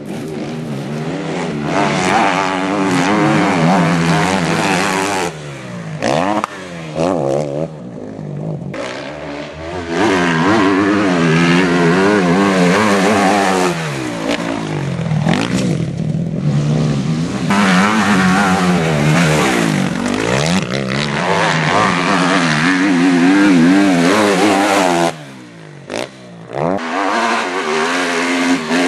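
Motocross dirt-bike engines revving hard, pitch repeatedly rising and falling with the throttle as the bikes ride the track, broken by several short lulls.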